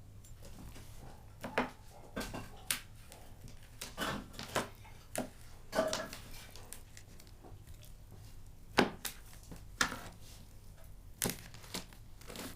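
Bone-in meat being cut and handled on a cutting board: a dozen or so irregular knocks and cracks of a knife against the board, the loudest about nine seconds in.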